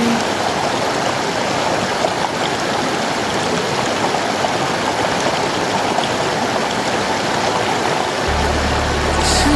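Mountain stream water rushing steadily over rocks. A low bass of music comes in near the end.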